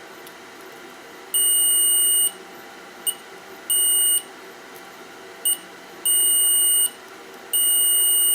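Multimeter continuity tester beeping in a single high steady tone: four beeps of about half a second to a second, with two short blips between them, each one marking probe contact across connected points on the circuit board.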